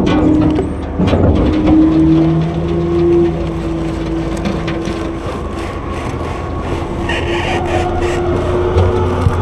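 Autocar front-load garbage truck working its Heil half-pack packer: the engine is held at raised revs to drive the hydraulics, a steady droning tone that rises slightly, with a couple of knocks about a second in.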